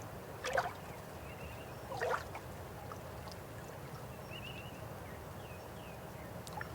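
River water flowing steadily, with two short louder splashes about half a second and two seconds in, and a few faint high chirps.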